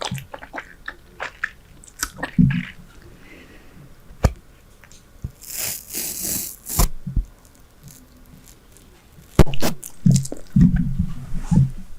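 Close-miked chewing of Super Bubble bubble gum: wet mouth smacks and sharp clicks, with a louder hissing rush about six seconds in and heavier low thumps near the end.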